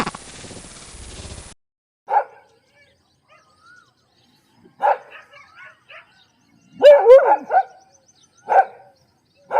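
Dog barking: single barks a few seconds apart, with a quick run of several barks about seven seconds in.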